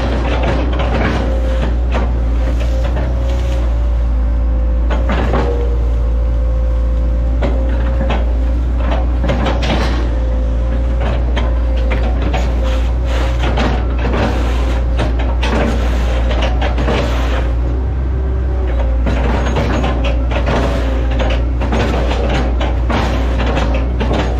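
Hitachi ZAXIS 110 excavator's diesel engine running steadily under load with a constant whine, over repeated knocks and clunks from the working machine as it fells and chops oil palm trees.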